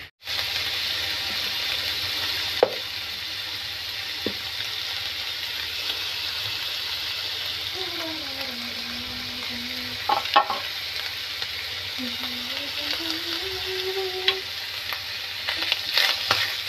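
Pork and green beans frying in a pan, a steady sizzle with a few sharp clicks and scrapes of a spatula stirring against the pan.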